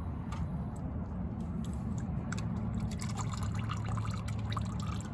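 Old engine oil draining out of a Subaru WRX's drain plug hole into a catch pan, trickling and dripping, with the drips growing denser about halfway through. A steady low hum runs underneath.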